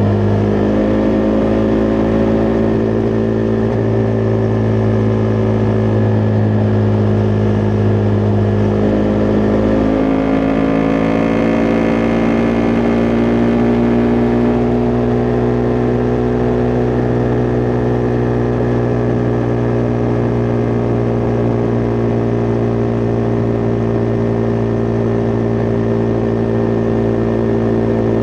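Husqvarna Vitpilen 401's single-cylinder engine running steadily under way. Its note shifts about ten seconds in, then holds steady.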